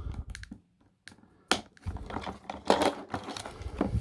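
Plastic toy packaging and a plastic action figure being handled as the figure is freed from its tray: irregular clicks, taps and short rustles, with a sharp click about one and a half seconds in.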